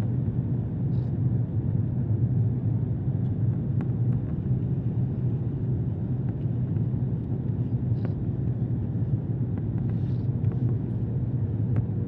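Airliner cabin noise: the steady low rumble of the jet engines and airflow during the approach, with a few faint clicks.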